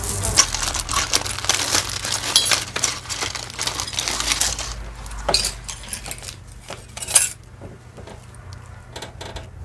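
Beads and costume jewelry clinking and rattling as they are handled and dropped into a box: a dense run of small clicks for about the first five seconds, then scattered clicks, with one louder clack a little after seven seconds.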